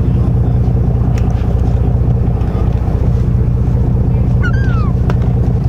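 Charter boat's engine running steadily, with a brief high, falling cry about four and a half seconds in.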